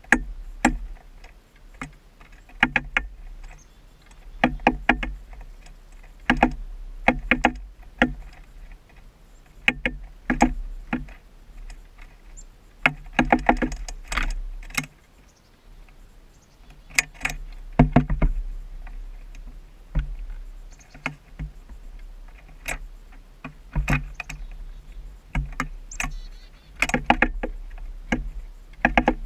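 Downy woodpecker pecking at a birdfeeder close to the camera: short bursts of rapid, sharp taps every second or two.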